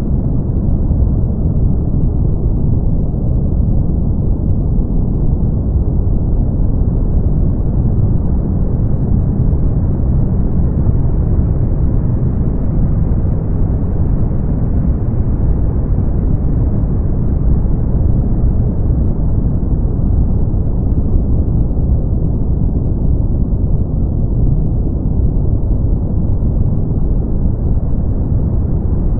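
Brown noise: a steady, deep rumbling hiss weighted to the low end, with its upper edge slowly swelling and receding over several seconds.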